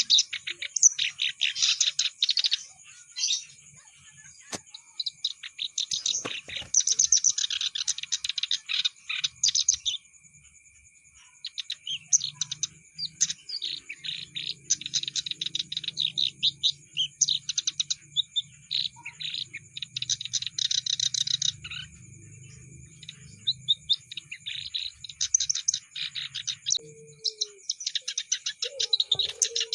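Kerak basi, a reed warbler, singing a fast, chattering song of rapid scratchy notes in long runs broken by short pauses, with one longer pause about a third of the way in. A faint steady high tone sounds underneath.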